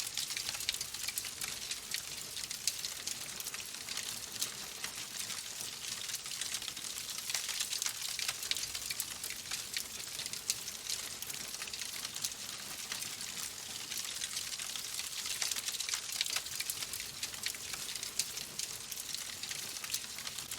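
Fireplace fire crackling: a dense run of small pops and snaps over a steady hiss, with no pauses.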